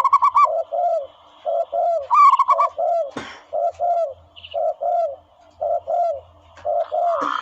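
Doves cooing in quick runs of short, repeated rising-and-falling notes, two pitches overlapping as if from more than one bird. There is a brief scrape or knock about three seconds in.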